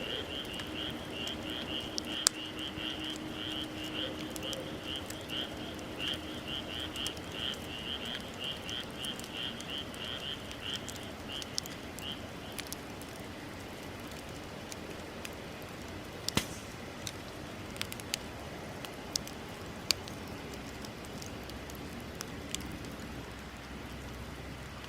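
Bonfire crackling with scattered sharp pops, while a rapid run of high chirps repeats about four times a second through the first half, then stops.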